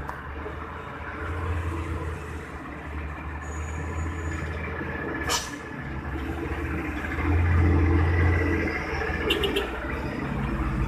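Heavy truck engine running under load, growing louder about seven seconds in, with a sharp click about five seconds in and a few quick clicks near the end.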